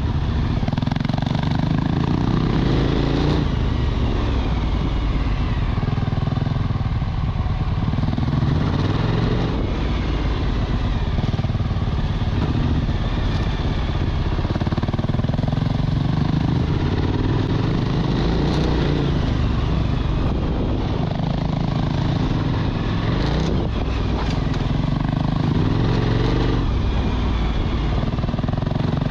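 Motorcycle engine running under load on a dirt road, the revs rising and falling again and again as the rider works the throttle.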